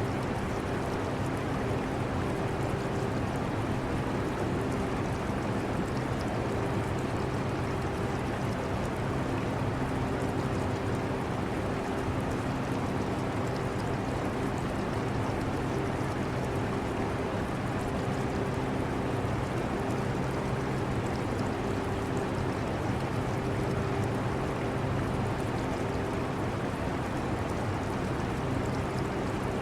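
Air conditioner running steadily with a low hum, mixed with the trickle of aquarium water.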